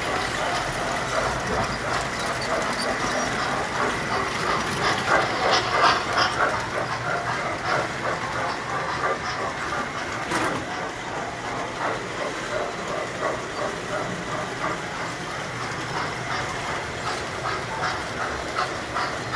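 Tinplate model electric trains running on three-rail track: steady rapid clicking of wheels over the rails with a thin motor whine, a little louder about five to six seconds in.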